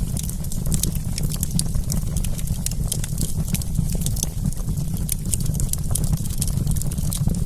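Wood campfire crackling: a dense, irregular run of sharp pops and snaps over a steady low rumble of burning.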